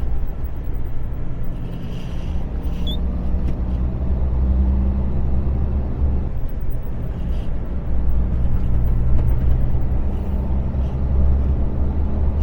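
Lorry's diesel engine running with a low, steady hum, heard from inside the cab while driving; the engine note shifts a few times.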